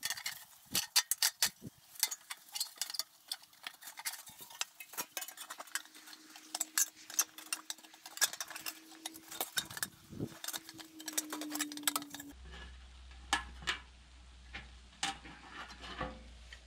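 Rapid, irregular metallic clicks, clinks and taps, as of hand tools working thin rusted sheet metal. About two thirds of the way in, a steady low hum comes in under sparser clicks.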